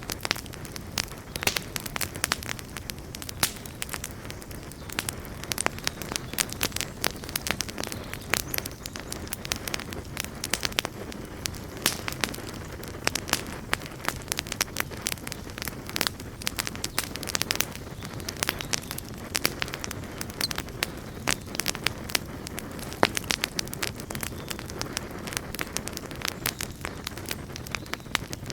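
Campfire burning with a steady low rumble and many irregular, sharp crackles and pops of burning wood.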